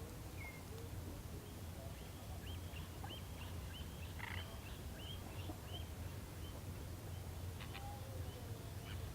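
A bird calling with a run of short, repeated high notes, about two a second, over a steady low hum.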